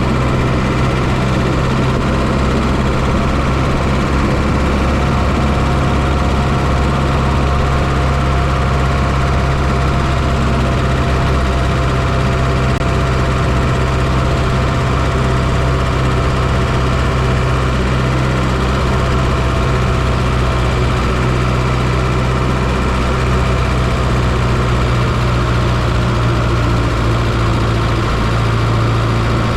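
Fiat Coupe's 2.0 16-valve turbocharged four-cylinder engine running steadily at an even, unchanging speed with no revving, heard close up from inside the engine bay.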